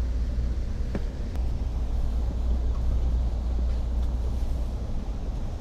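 Steady low rumble of a passenger train running, with a couple of faint clicks about a second in.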